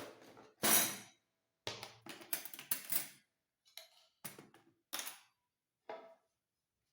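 Dishes and kitchenware clattering as they are handled while washing up: a string of short, irregular clatters, the loudest about a second in, with one brief ring after it.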